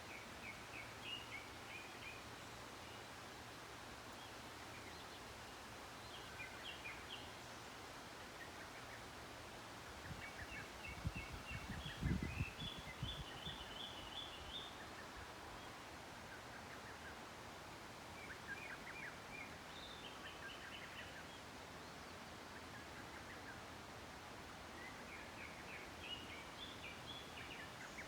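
Birds calling in bursts of quick chattering notes, a phrase every few seconds over a faint steady outdoor background. A few low thumps about a third of the way in are the loudest sound.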